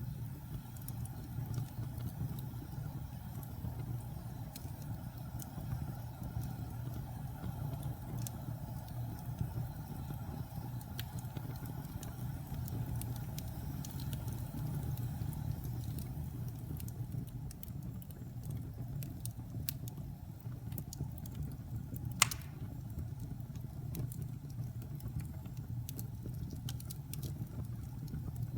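Wood fire in a fireplace burning with a steady low rumble of flames and scattered small crackles, with one sharp loud pop about three-quarters of the way through.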